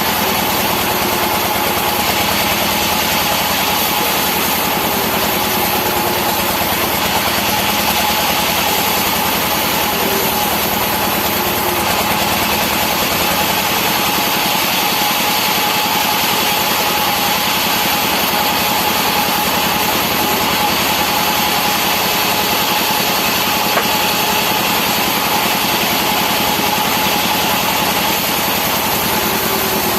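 Two-stroke chainsaw running at an even, steady speed while slicing rubberwood-type logs into boards, with a steady whine over the engine noise.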